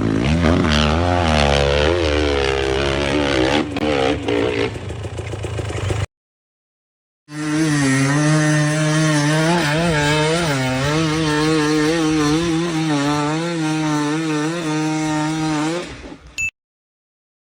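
Dirt bike engines revving in two separate clips. The first runs about six seconds with revs rising and falling. After a second's break, a second bike holds a steady idle-to-mid rev with repeated throttle blips for about nine seconds, then cuts off.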